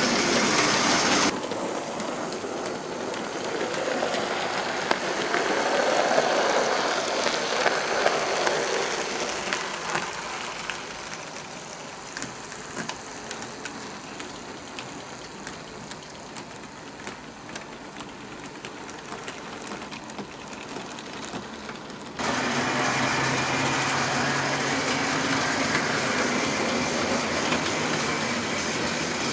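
OO gauge model trains running on the layout: a steady whirring rumble with small regular clicks as the wheels cross the rail joints, swelling as a train passes close. The sound changes abruptly about a second in and again near the end.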